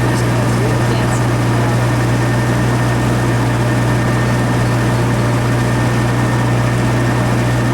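Amphicar's four-cylinder Triumph Herald engine running at a steady speed, giving a constant low drone with no change in pitch.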